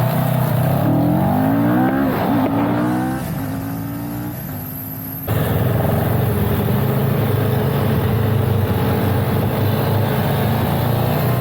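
CFMoto CL-X 700 parallel-twin motorcycle engine accelerating, its pitch rising in steps with drops at the gear changes, then easing off. About five seconds in the sound jumps abruptly to steady cruising engine under rushing wind noise.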